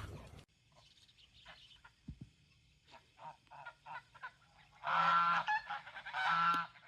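Faint scattered short bird calls, then two loud bird calls, each lasting under a second, one after the other.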